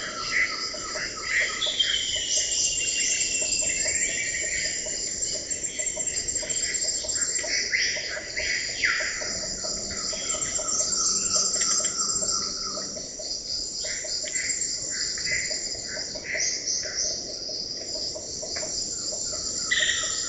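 Amazon rainforest ambience: a steady, high-pitched insect chorus with many bird calls and whistles over it, some of them sliding in pitch.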